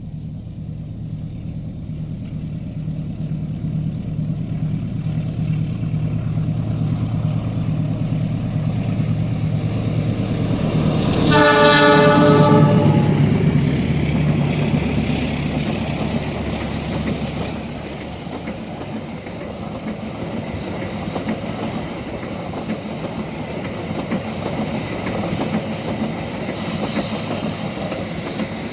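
Diesel locomotive approaching with its engine drone growing steadily louder. It gives one horn blast of about two seconds as it reaches the microphone, then the wheels of the train's carriages clatter on the rails as they roll past.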